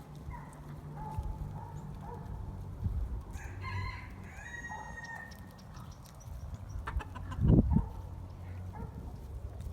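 Chickens clucking, with a rooster crowing once for about two seconds, starting about three and a half seconds in. A low thump about three quarters of the way through is the loudest sound.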